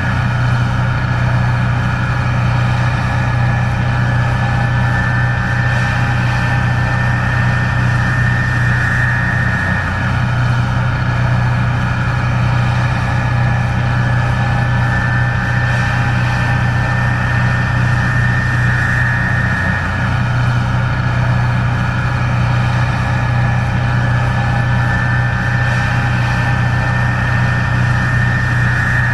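Case IH 1660 Axial-Flow combine running steadily while harvesting corn: a deep, even engine drone with a steady high whine over it.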